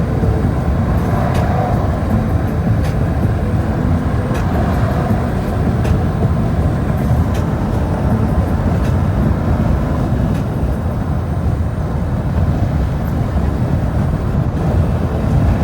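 Steady low rumble of a vehicle in motion, with faint light ticks over it.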